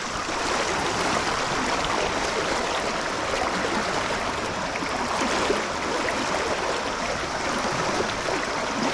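Trout stream water flowing steadily, a continuous even rush.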